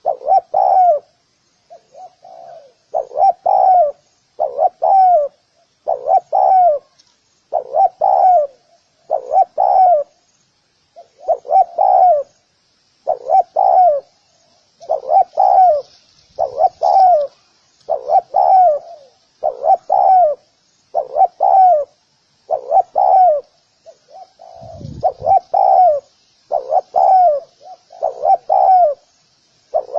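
Spotted dove cooing over and over, a short cooing phrase about every second and a half with an occasional longer pause.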